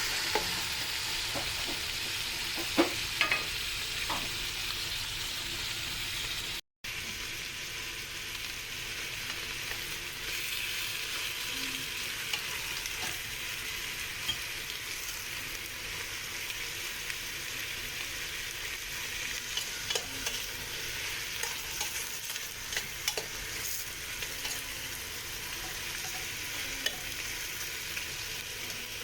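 Chicken pieces frying in hot oil with sautéed garlic, onion and ginger, giving a steady sizzle. Occasional clicks and scrapes of a utensil stir the pan. The sound cuts out for a moment about seven seconds in.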